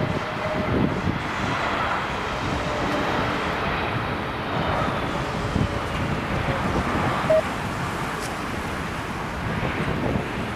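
Jet airliner engine noise with a faint high whine that slowly falls in pitch, under gusting wind buffeting the microphone.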